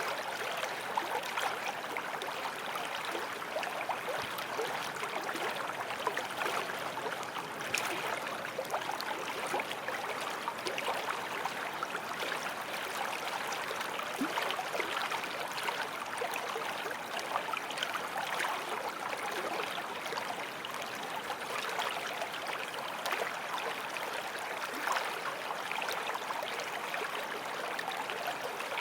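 Forest stream flowing steadily over stones, a continuous babble of water with small splashes and gurgles.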